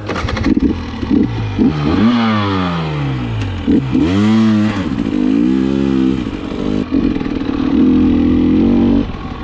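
KTM 300 XC-W TPI dirt bike's single-cylinder two-stroke engine revving up and down under load in deep sand, its pitch repeatedly rising and falling, then held high and steady through the second half.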